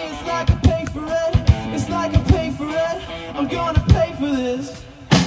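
Rock band playing live: a sung melody over drum kit and guitar, with steady drum hits. Near the end the music drops away briefly before a sharp drum hit.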